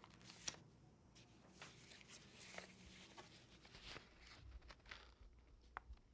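Near silence: quiet room tone with faint scattered soft clicks and rustles.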